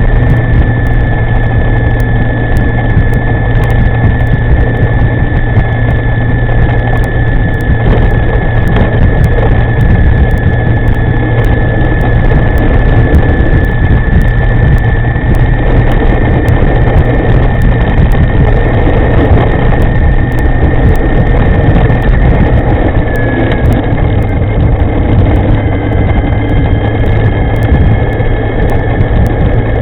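Wind rushing over the microphone of a moving electric scooter, with the steady high whine of its electric motor running under it; the whine dips slightly in pitch about 23 seconds in.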